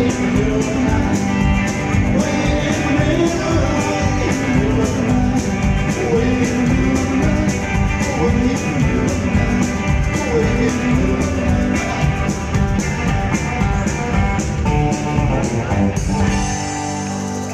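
Rockabilly band playing, with guitar and an even drum beat; near the end the beat stops and a final chord rings on.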